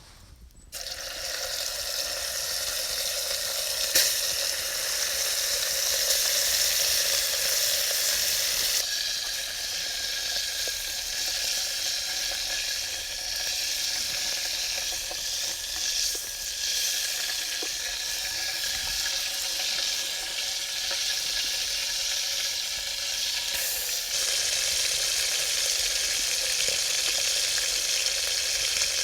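Food sizzling and frying in a pot over a campfire, a dense steady hiss that starts abruptly about a second in.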